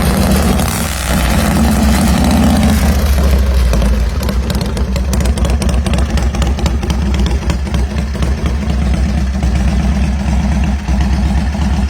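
Harley-Davidson Shovelhead V-twin motorcycle engine running steadily.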